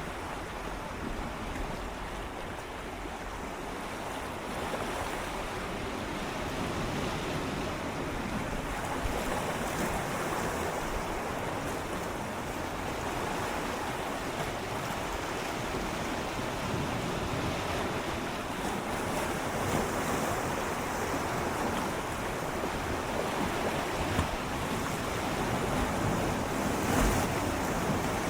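Gentle sea waves swirling and lapping against shoreline rocks, a continuous wash of water that slowly swells in level, with a few brief splashes near the end; some wind on the microphone.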